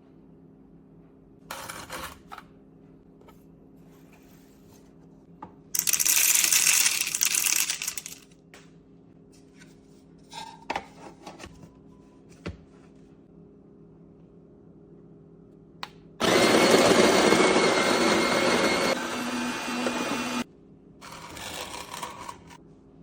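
Fellow Opus conical burr coffee grinder's motor grinding beans in two short runs, one about two seconds long and a later one of about four seconds with a steady whine, among smaller clicks and clatter from handling the grinder.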